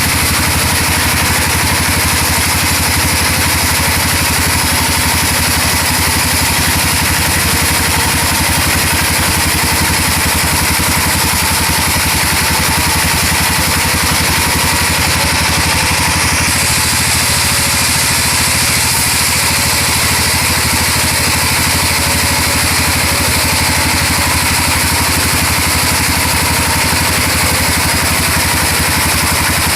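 Sawmill machinery running steadily with a constant engine-like drone and a hiss in the high range, which shifts slightly about 16 seconds in.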